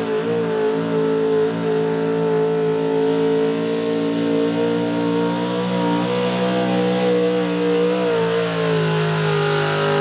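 Chevrolet outlaw 4x4 pulling truck's unlimited-cubic-inch engine held at high revs under load while dragging a weight-transfer sled. The pitch stays nearly steady, wavering slightly.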